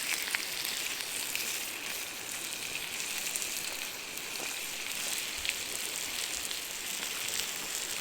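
Paella sizzling in a pan over a wood fire: a steady frying hiss with a few faint crackles.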